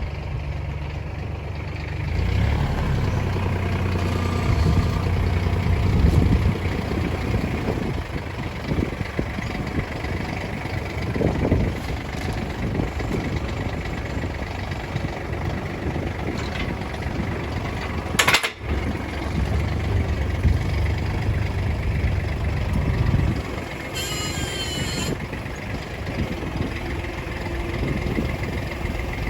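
Tractor engine running, its note swelling and easing off twice, with a single sharp click near the middle.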